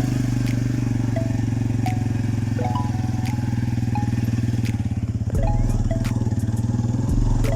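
Italika TC-250 motorcycle's single-cylinder engine running at low speed with an even firing pulse, its low rumble growing louder about five seconds in and again near the end.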